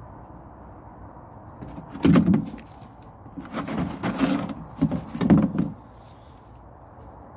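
Handling noises under a car: a loud clunk about two seconds in, then a run of knocks and rattling scrapes of metal tools and parts a second or so later, ending just before the last two seconds.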